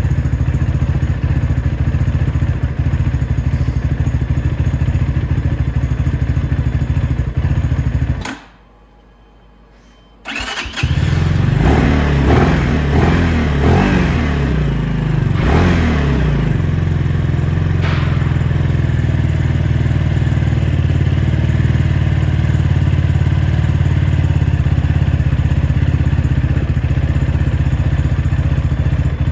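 Venom X22R Max motorcycle's fuel-injected 250cc engine idling, then cutting out about eight seconds in. After a gap of about two seconds it starts again, is revved a few times and settles into a steady idle. The stalling is the ECU still learning the new bike and nothing bad.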